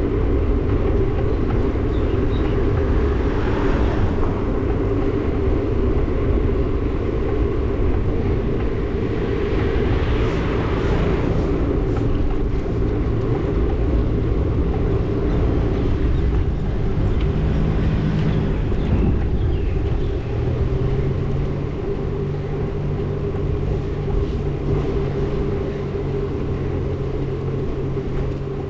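Steady motor-vehicle engine and road noise while riding along a road, with a continuous low rumble. About two-thirds of the way in, the engine note shifts to a lower steady hum.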